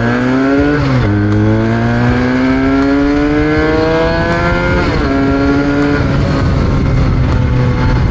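Benelli 300 motorcycle engine accelerating through the gears: the pitch climbs, drops at an upshift about a second in, climbs again for several seconds, drops at another upshift about five seconds in, then holds steady at a cruise.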